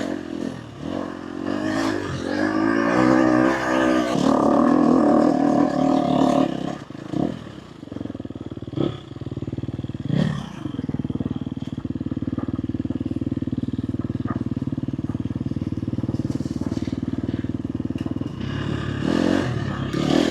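Dirt bike engine revving and picking up speed over the first few seconds, then running at a steady note for most of the rest. A few sharp knocks come around the middle.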